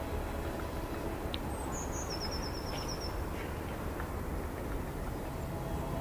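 A small songbird gives a short, high trill of quick repeated chirps about two seconds in, over a steady low outdoor rumble.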